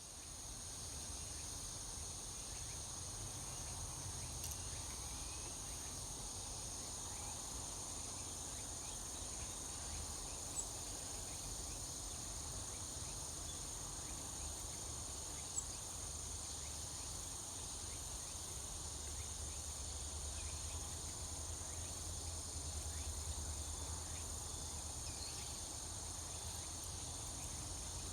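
Steady, high-pitched chorus of insects trilling without a break, with two brief high ticks about a third and halfway through.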